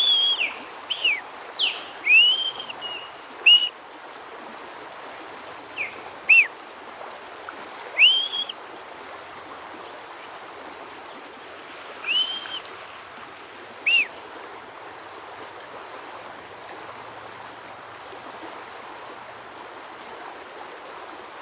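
Ospreys calling: short, arched whistled chirps, several in quick succession at first, then single calls every few seconds, stopping about two-thirds of the way through. A steady rush of river water runs underneath.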